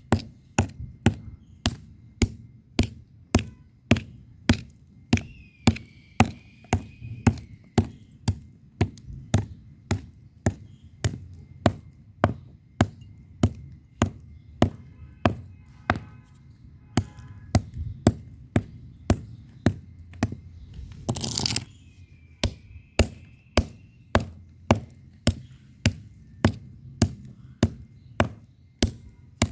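Red bricks struck against each other in a steady rhythm, about two hits a second, each hit a sharp clinking knock with a brief high ring. About two-thirds of the way through, one longer burst of grating noise lasts about half a second.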